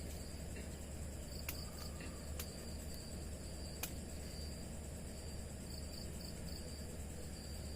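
Crickets and other insects chirping in forest at night, a thin pulsing high trill over a steady low hum, with a few sharp ticks.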